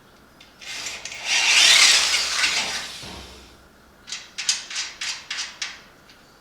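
Hand-tool work on a steel frame part: a rasping scrape lasting about two and a half seconds, then about seven quick, sharp strokes about four times a second, as the badly matched holes are worked.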